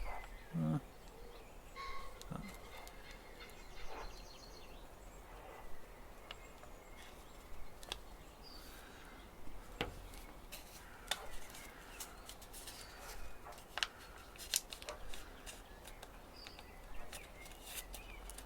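Thin Kami origami paper being folded and creased by hand: scattered crisp crackles and clicks from the paper, with soft rustling between them.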